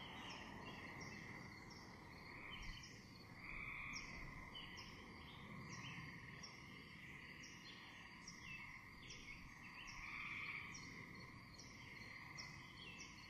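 Faint nature ambience: small birds chirping, short high chirps repeating about once or twice a second over a steady high drone.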